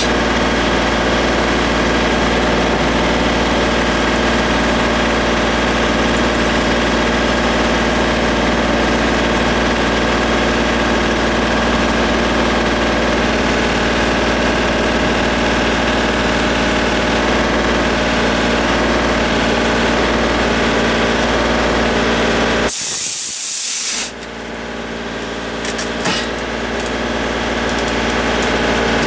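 An engine running steadily at a constant speed. About three-quarters of the way through comes a short, loud hiss lasting about a second, after which the engine is quieter and slowly grows louder again.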